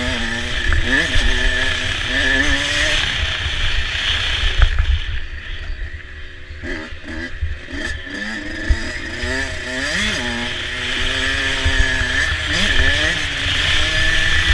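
Motocross dirt bike engine revving up and down repeatedly as it is ridden hard. The throttle eases off for a few seconds around the middle before it picks up again, all over a steady rush of noise and low knocks.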